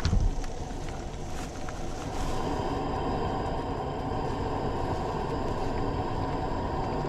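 Shrimp scampi sauce with linguine simmering and sizzling in an uncovered pan on a camp burner, cooking down until the sauce thickens. A few light clicks in the first two seconds, then a steady sizzle.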